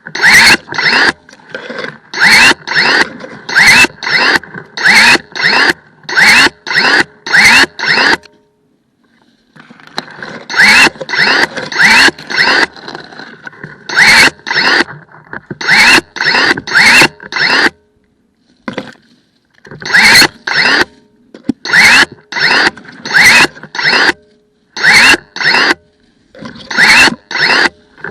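Cordless 18V battery pruning shears cutting branches and undergrowth: the motor drives the blade in quick strokes, each a short whir that rises in pitch, about one and a half a second, in three runs separated by brief pauses.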